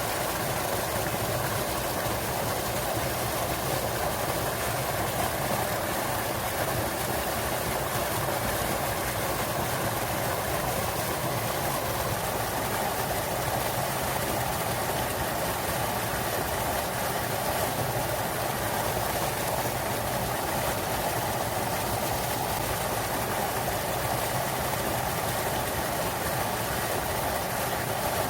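Small waterfall splashing steadily into a clear mountain stream, an even rushing with no let-up.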